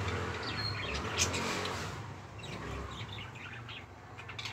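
Small birds chirping in short, scattered calls, with a brief whistled note, over a low steady hum.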